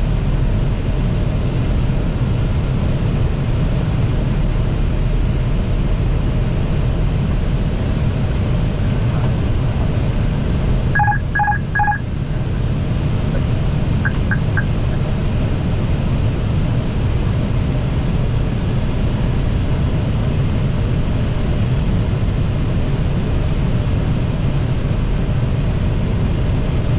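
Steady, deep noise of airflow and engines in an Airbus A320 cockpit on final approach. About eleven seconds in, three short electronic beeps sound, and a couple of seconds later three fainter quick pips.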